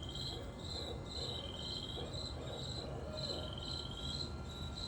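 Crickets chirping in a steady pulse, about two to three chirps a second, with a longer insect trill between them. Faint barred owl hoots sound in the background.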